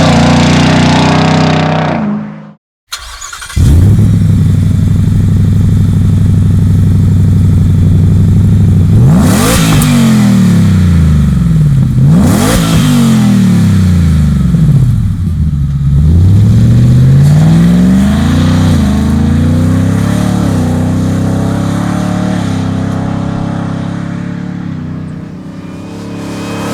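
Ford F-150 Raptor R's supercharged 5.2-litre V8 exhaust running loud. It breaks off to silence for a moment about three seconds in, then revs up and back down several times and eases off near the end.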